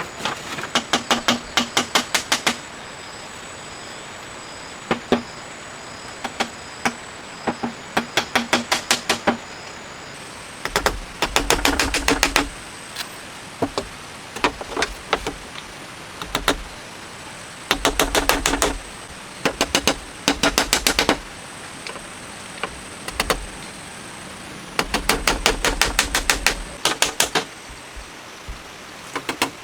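Rapid sharp knocks, about five a second, in runs of one to three seconds with short pauses between them. Some runs carry a heavier low thud beneath.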